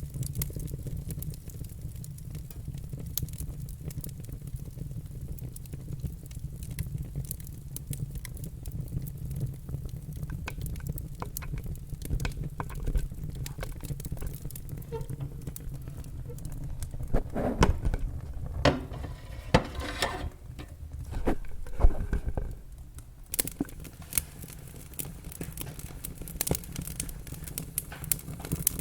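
Wood fire burning in a fireplace: a steady low rumble of flames with scattered crackles, which thicken into a run of louder pops and snaps between about two-thirds and three-quarters of the way through, the sharpest snap near the end of that run.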